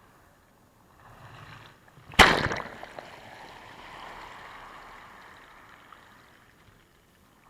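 A sea wave breaking on the shore: a sudden loud crash about two seconds in, then the hiss of the wash running up the beach and fading away over several seconds.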